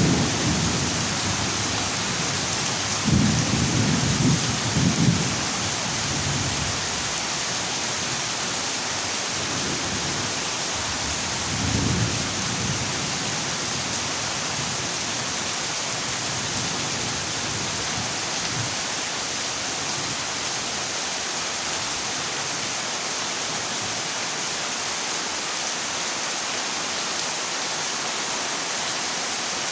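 Heavy rain drumming steadily on a corrugated zinc roof, with a roll of thunder about three to five seconds in and a shorter rumble of thunder about twelve seconds in.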